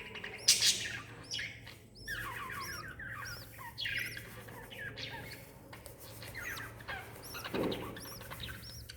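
Lovebirds chirping: a steady stream of short, high, repeated chirps, with one louder harsh call about half a second in.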